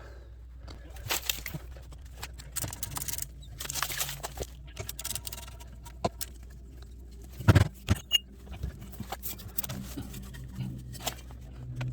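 Scattered metal clinks, rattles and knocks from hand tools and parts as one side of a Harley's exhaust is taken off, over a low steady hum, with a sharper knock about seven and a half seconds in.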